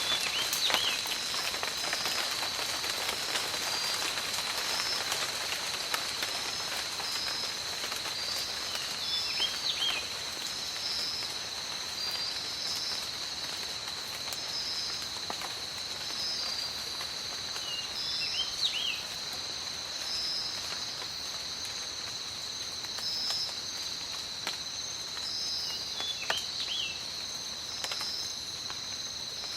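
Steady tropical rain falling on forest foliage, with insects trilling constantly in a high, pulsing chorus. A short chirping animal call recurs about every nine seconds, four times in all.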